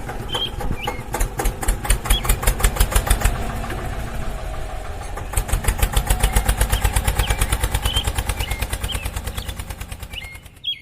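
A small engine running with a rapid, regular putt-putt beat. It eases off for a couple of seconds midway, picks up again, then dies away near the end. Birds chirp in the background.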